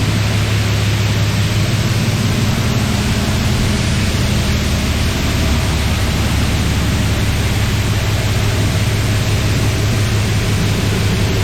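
High-pressure car-wash wand spraying water onto a pulled engine: a steady, loud hiss with a low hum underneath.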